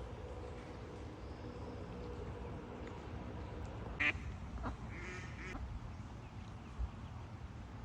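Ducks quacking: one short call about four seconds in and a longer one about a second later, over a steady low outdoor rumble, with a dull thump near the end.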